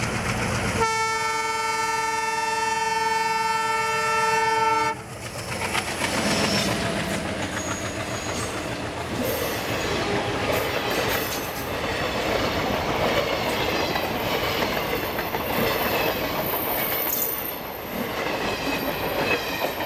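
WDM3A ALCo diesel locomotive sounding its horn in one long blast of about four seconds as it approaches, cutting off suddenly. The locomotive and passenger coaches then rush past, their wheels clattering over the rail joints.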